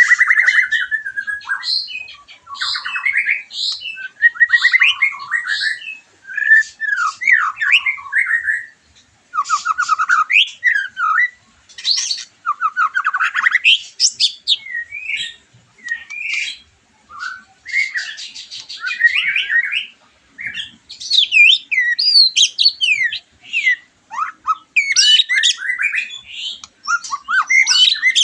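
White-rumped shama singing a loud, varied song of clear slurred whistles mixed with fast rattling trills and chattering phrases, with brief pauses between phrases.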